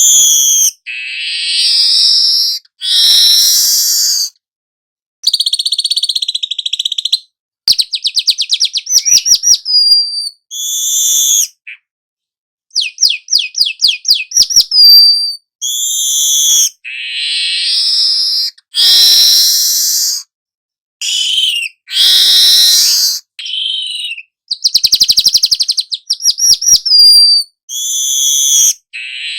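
Young manyar (weaver bird) singing a long run of buzzy, harsh chattering phrases broken by short pauses, with rapid clicking trills about eight seconds in, about thirteen seconds in, and again near twenty-five seconds.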